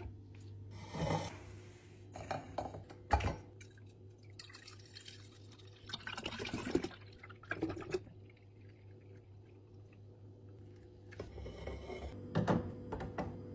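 Liquid being poured and dripping into a container, in several short spells, with the knock of a container being set down about three seconds in. A steady low hum runs underneath.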